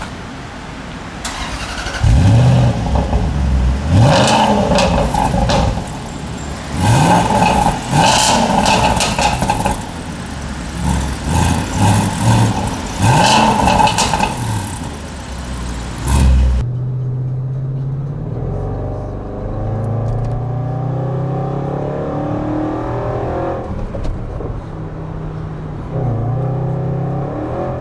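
Range Rover SVR's supercharged V8 revved again and again, about five rises and falls in pitch with crackles from the exhaust. About 16 s in the sound cuts suddenly to the engine running at a lower, steady note, with a short rise near the end.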